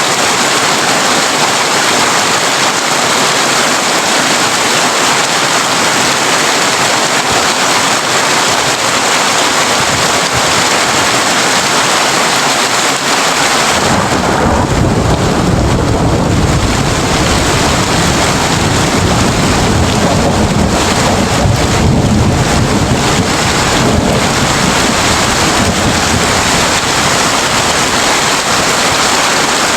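Heavy rain drumming steadily on a tin roof. About halfway through, a deep, rolling thunder rumble sets in and carries on under the rain.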